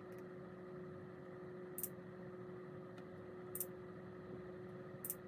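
Faint steady hum with a single held tone, broken by three brief high ticks spaced a little under two seconds apart.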